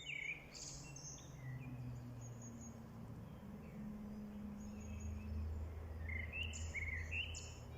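Small songbirds chirping and trilling in short phrases, busiest near the start and again near the end, over a low steady hum.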